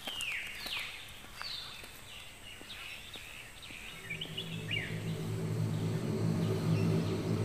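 Birds calling with repeated high whistles that slide downward, over faint footsteps on a gravel path. About four seconds in, a low steady drone of several held tones comes in and grows louder as the calls fade.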